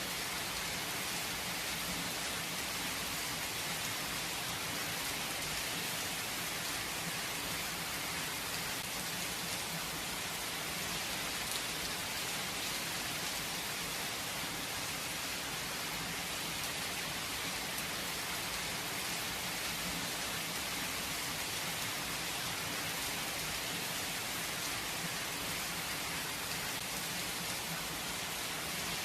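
Steady rain without thunder, an even hiss of falling rain and drops on surfaces.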